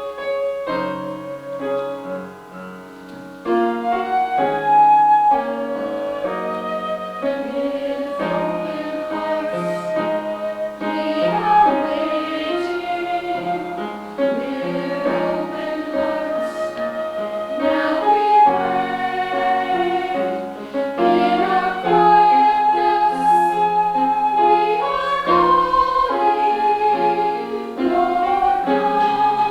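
Piano music that swells about three and a half seconds in, as singing over piano accompaniment takes over.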